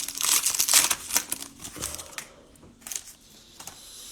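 Cellophane trading-card pack wrapper crinkling as it is handled and opened. The crinkling is dense for about the first two seconds, then thins to a few light clicks.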